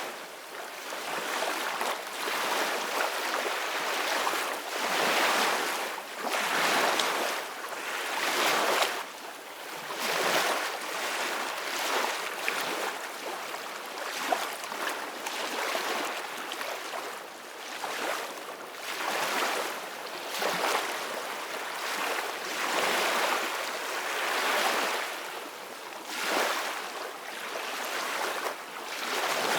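Ocean waves washing onto a beach, the surf swelling and easing in surges about every two to three seconds.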